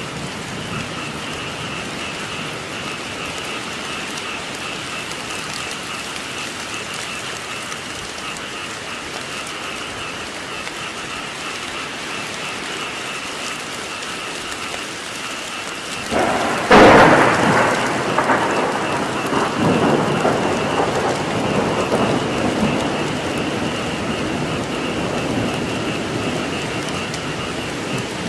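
Steady rain falling, with frogs calling steadily in the background. About sixteen seconds in a thunderclap breaks sharply, the loudest sound here, then rumbles on for several seconds before fading back under the rain.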